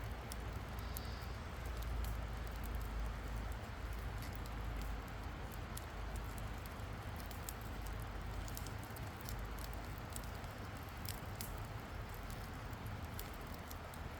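Campfire crackling, with scattered sharp pops and snaps of burning wood over a steady low rumble.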